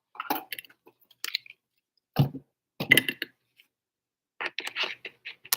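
Trading cards and their plastic sleeves or holders being handled: a scatter of short rustles, clicks and light taps.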